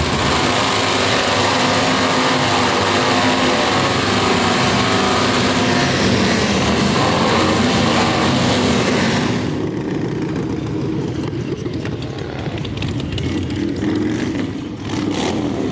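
Motorcycle burnout: the engine held at high revs while the spinning rear tyre gives a loud, steady hiss. About nine seconds in, the tyre noise stops and the engine drops back to lower, uneven revs.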